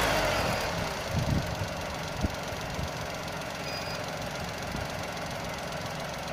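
Volkswagen Fox 1.2-litre CHFB three-cylinder engine dropping from raised revs to idle within the first second, then idling steadily. A few light knocks sound about a second in, and a click just after two seconds.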